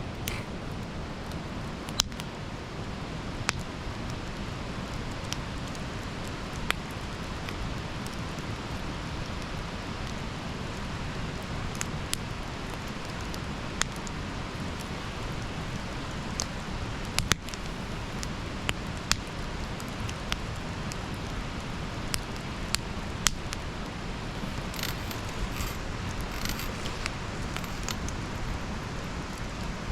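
Campfire burning: a steady hiss of flames with sharp crackles and pops of burning wood at irregular intervals.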